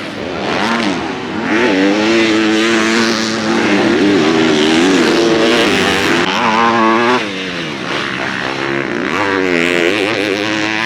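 Motocross bike engines revving on track, their pitch rising and falling again and again as the throttle is opened and closed through the gears. The sound dips briefly about seven seconds in, then climbs again.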